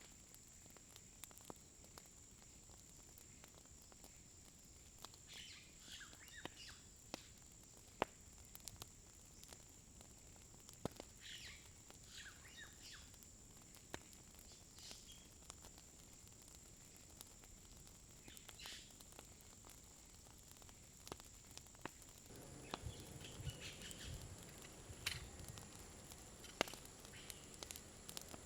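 Faint outdoor ambience: birds chirping now and then over a steady high hum, with scattered small sharp clicks. From about two thirds of the way in, low rustling and knocking of handling grows louder.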